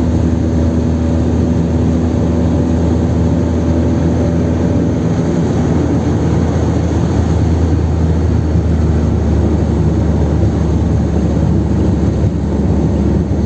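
Kadett 1.8's naturally aspirated four-cylinder engine, heard from inside the cabin at a steady highway cruise: a continuous low drone mixed with tyre and wind noise.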